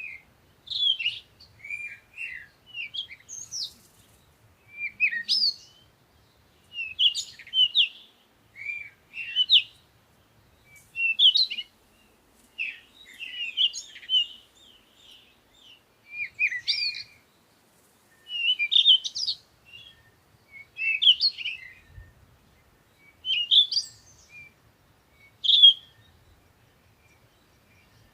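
Songbirds singing in the morning: short chirping phrases repeated about every two seconds, with brief pauses between them.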